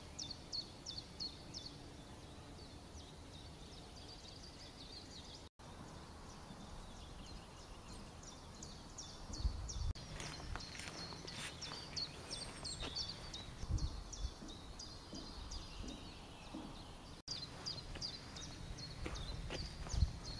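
Small songbirds chirping in quick, repeated high calls, over outdoor background noise with a few low rumbles. The sound drops out for an instant twice.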